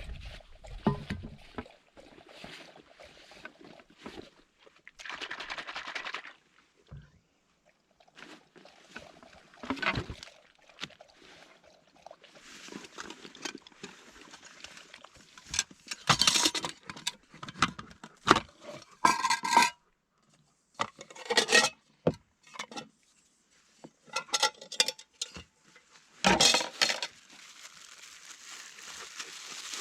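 Camp cookware and metal utensils clinking and scraping in irregular handling sounds, with several louder knocks and scrapes in the second half.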